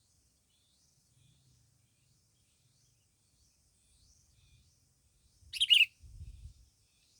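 A small bird chirping: faint short high calls throughout, then one loud sharp call a little over five seconds in. A low rumble follows just after it.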